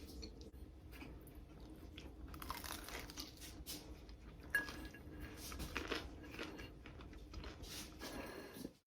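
Irregular soft crunching and clicking, with one sharper click about halfway through, over a low steady hum; it cuts off suddenly at the end.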